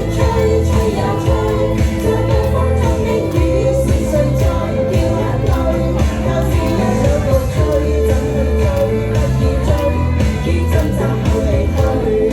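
A woman singing a pop song over instrumental accompaniment with a steady, pulsing bass line.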